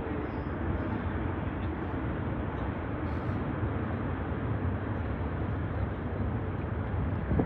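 Turkish Airlines jet airliner's engines at takeoff power: a steady, deep jet roar.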